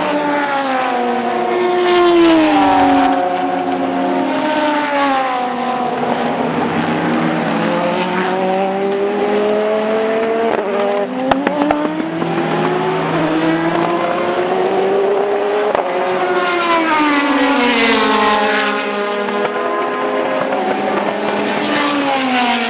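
Several race cars passing at speed, their engines revving up and down as they run through the gears. The pitch rises and falls as cars pass, loudest about two seconds in and again near eighteen seconds.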